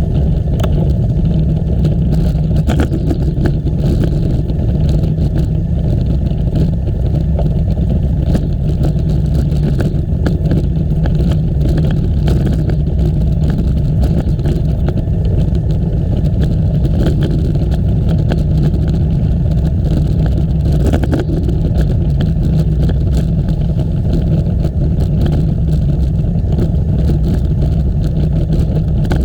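Steady low wind rumble on the microphone of a camera riding on a moving bicycle, with frequent small clicks and rattles.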